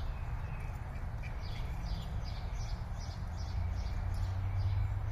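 A small bird chirping over and over, short high falling notes about two a second, over a steady low outdoor hum.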